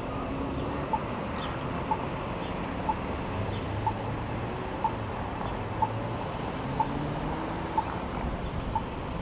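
Pedestrian crossing signal giving short, high beeps about once a second, evenly spaced, over a steady hum of street traffic.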